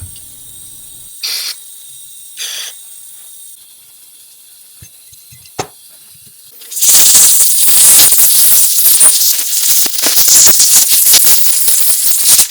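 Two short hisses and a click, then, about seven seconds in, a low-pressure compressed-air blowgun starts blowing through the Holley 1904 carburetor body's air and fuel passages. It makes a loud, steady, rough hiss as it clears out the carburetor cleaner.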